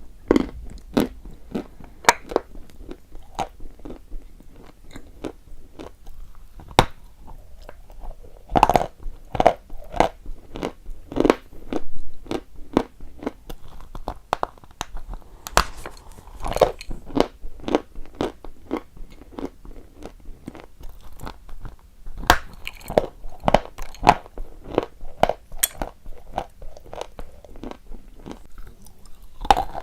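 A person biting and chewing hard chalk, with a long run of sharp crunches at an uneven pace.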